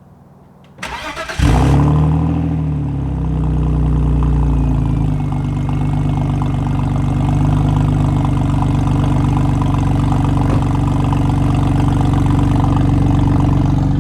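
A car engine cranked briefly by the starter, catching about a second and a half in and flaring to a fast idle, then settling down to a steady idle about five seconds in. Very loud.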